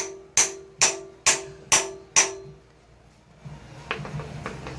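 Hammer striking a rod driven into bread packed behind a worn pilot bearing in a Ford 5.0 crankshaft, forcing the bearing out hydraulically. There are six sharp metallic blows, each with a short ring, about two a second, stopping a little over two seconds in.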